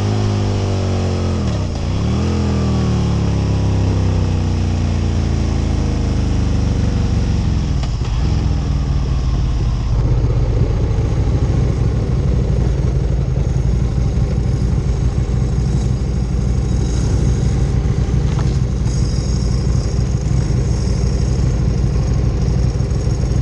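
Aprilia RSV Mille R's 998 cc V-twin engine heard from on board, its revs dipping and picking up twice early on, then slowly falling as the bike slows, and settling into a steady low idle from about ten seconds in.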